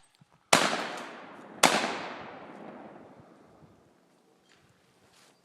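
Two rifle shots about a second apart, each followed by a long rolling echo that dies away over a couple of seconds.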